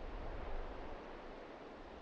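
Steady wind outdoors in snowy mountains: an even hiss with a low rumble of wind on the microphone.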